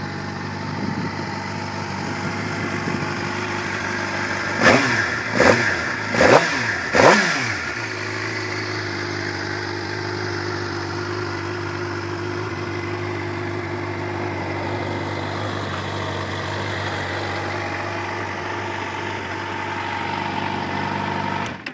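2013 Suzuki GSX-R 750's fuel-injected inline-four engine idling, blipped four times in quick succession about five seconds in, each rev rising and falling sharply, then settling back to a steady idle.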